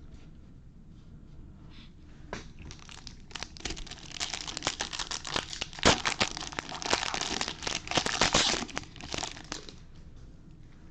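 Foil wrapper of a pack of baseball cards being torn open and crinkled, a few scattered crackles first and then several seconds of dense crinkling that dies away near the end.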